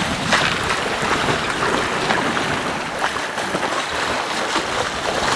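Steady rush of wind and sea water around a Beneteau 40.7 sailing yacht under way in open ocean.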